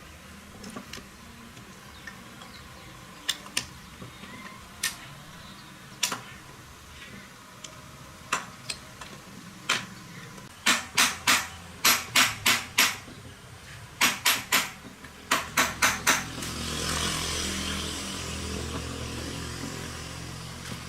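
Sharp metal taps, like a hammer striking a motorbike part: single knocks at first, then quick runs of four to five strikes at about four a second. A few seconds of hissing rush follow near the end.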